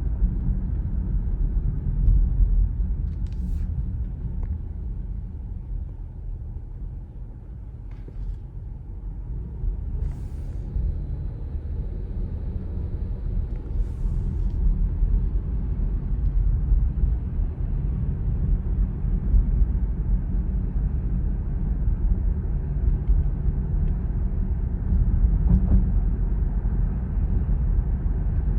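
Low, steady rumbling drone of airplanes passing over at a distance, swelling and fading a little.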